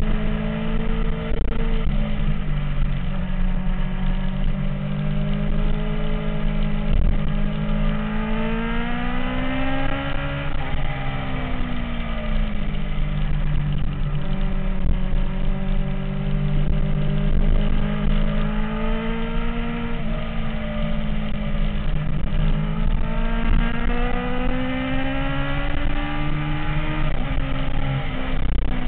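MV Agusta F4 inline-four engine running at varying revs. Its pitch climbs slowly and then falls off twice: once around the middle, and again near the end.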